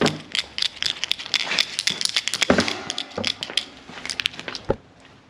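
Handling noise: a quick run of clicks, rattles and crinkles as small hard objects are moved about, dying away shortly before the end.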